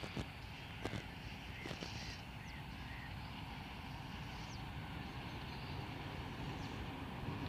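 Distant train approaching unseen in fog: a low, steady rumble that slowly grows louder. A few faint bird chirps in the first few seconds.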